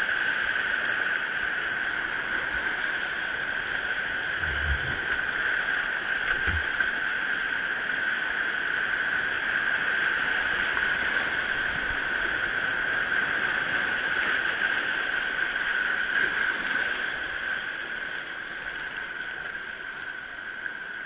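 Steady rush of river rapids: a continuous hiss of fast-flowing water that eases off a little near the end, with a couple of dull low thumps about four and six and a half seconds in.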